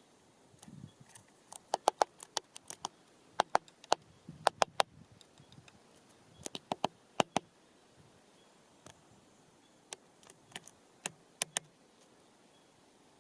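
Birds pecking and moving about on hanging bird feeders: irregular sharp clicks and taps, some in quick pairs and clusters, with a couple of soft rustles.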